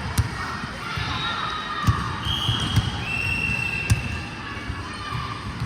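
Volleyball play in a gym hall: a volleyball is struck with sharp smacks about a second apart, over a steady echoing din of players and spectators. There are long high-pitched squeals between about two and four seconds in.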